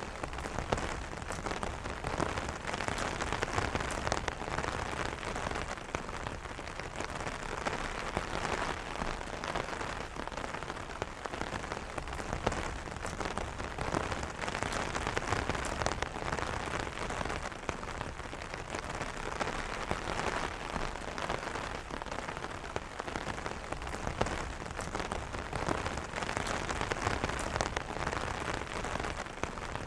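Steady rain pattering on an umbrella canopy: a dense, even patter of drops striking the taut fabric.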